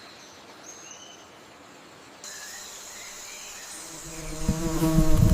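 Rainforest ambience with a few faint, short bird chirps. A steady high insect whine comes in about two seconds in. Near the end a low, steady insect buzz swells up close and becomes the loudest sound.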